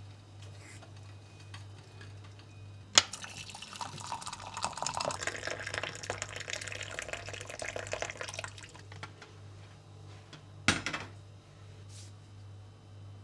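Water running and splashing for about five seconds, with small clinks in it. A sharp knock comes just before it and another a couple of seconds after it.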